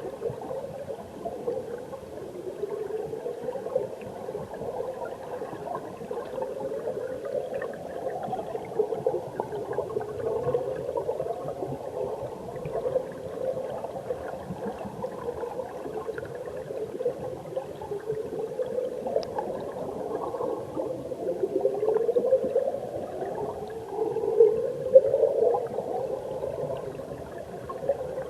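Mountain stream water churning and gurgling, heard underwater through a submerged camera: a muffled, low rushing that keeps swelling and easing, loudest near the end.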